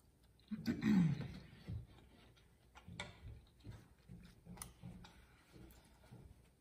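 Close-miked eating sounds: a loud mouth sound with a falling hum about half a second in, then closed-mouth chewing of soft, chewy rice cakes and glass noodles, small wet smacks about two to three a second.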